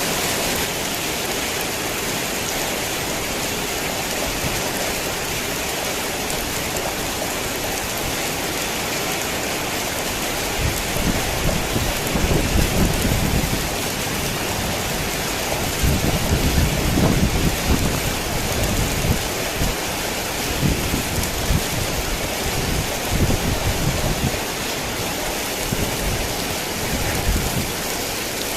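Heavy rain falling steadily. Several rolls of low thunder rumble in swells through the middle, then die away near the end.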